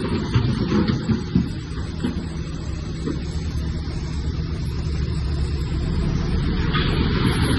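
Bulldozer's heavy diesel engine running steadily, with a few short knocks in the first second and a half.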